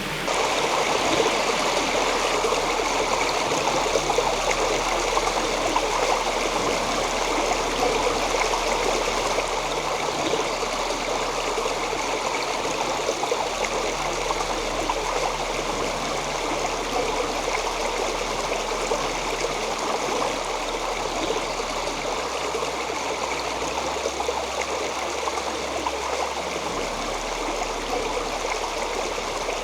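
Creek water flowing steadily over its bed, a continuous rushing.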